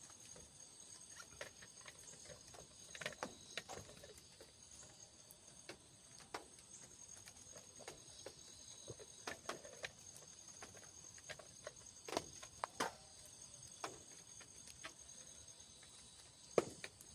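Faint steady chorus of insects, crickets or similar, with scattered irregular taps and clicks throughout, a sharper one near the end.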